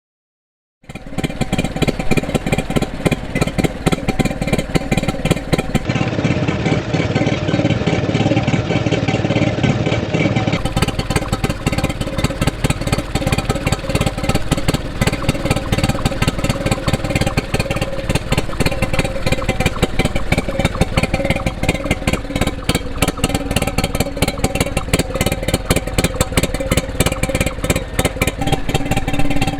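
1950s Stuart P55MR twin-cylinder two-stroke marine engine running steadily, with a rapid, even firing beat. It comes in abruptly just under a second in.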